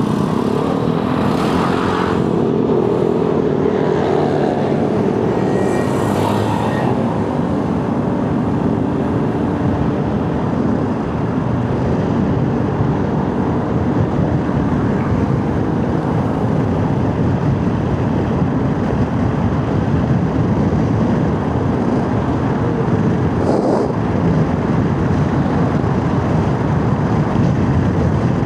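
Motorcycle riding along a rough, potholed road, its engine running steadily under a constant rush of road noise.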